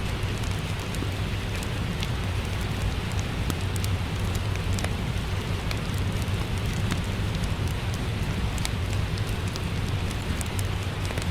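Steady rain mixed with a crackling fireplace: a constant even hiss over a low rumble, with scattered small sharp crackles.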